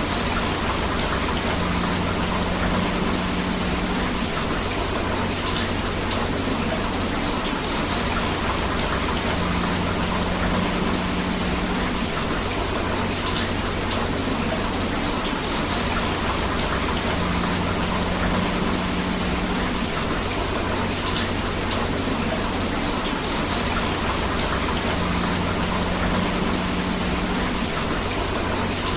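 Steady rain falling together with a flowing river: an even, unbroken rush of water, with a faint low hum that comes and goes about every eight seconds.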